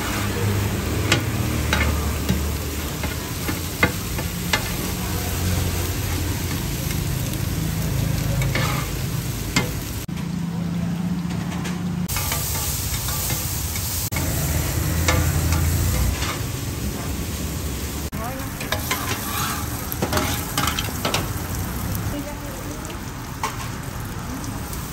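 Food sizzling on a hot street-food griddle, with metal ladles and spoons clinking sharply against steel pots now and then.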